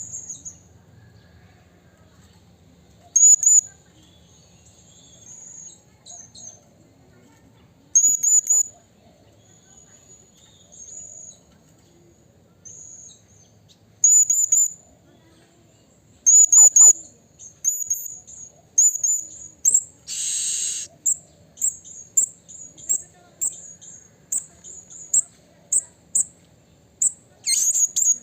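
Blue-crowned hanging parrot giving short, very high, thin calls in quick clusters every few seconds, then a faster run of calls over the last ten seconds. A brief harsh, hissy sound about twenty seconds in.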